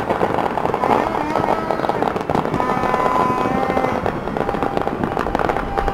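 Many fireworks and firecrackers going off at once in a continuous dense crackle of small bangs, with several long steady tones sounding over them.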